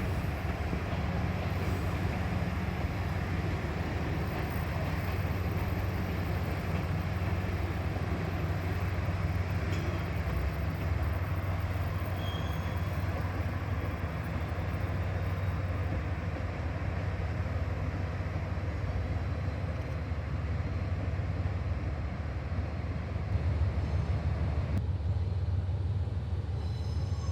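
KiHa 47-series diesel railcars with their diesel engines running, a steady low rumble.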